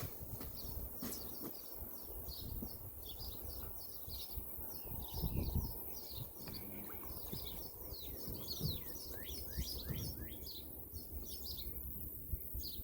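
Small birds chirping rapidly and continuously: many short high calls, several sliding down in pitch, with a low uneven rumble underneath.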